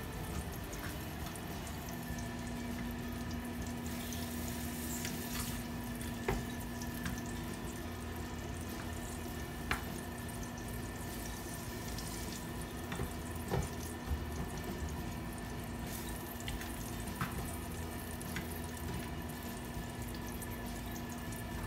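Red onion and garlic sizzling as they sauté in hot oil in a frying pan, with scattered clicks and scrapes of a spatula stirring against the pan. A steady low hum comes in about a second in.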